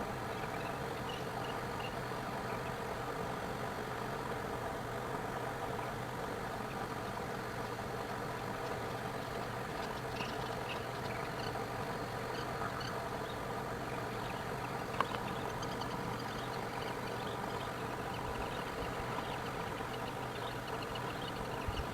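A steady mechanical hum with several fixed tones, like an idling engine, with a single sharp click about fifteen seconds in.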